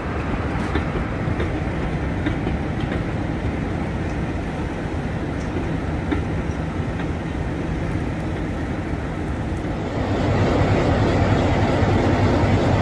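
Railway passenger coaches rolling along a platform line, a steady low rumble with wheels clicking over the rail joints. About ten seconds in, a louder, steady low rumble takes over.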